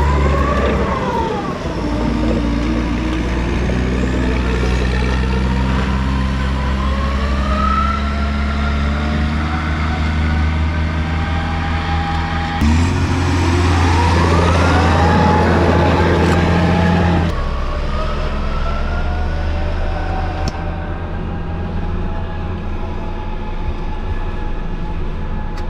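Lorry's diesel engine running loud under load, its revs rising and falling with a whine that climbs sharply about halfway through and drops away a few seconds later.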